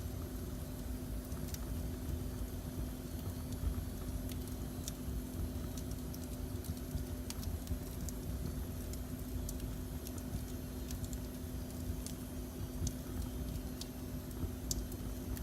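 Fire burning in a fireplace, crackling with scattered sharp pops over a steady low rumble and a faint steady hum.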